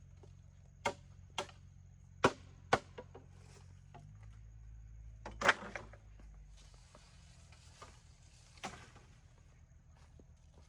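A few sharp knocks or taps at irregular intervals, the loudest about two and five seconds in, over a faint low hum.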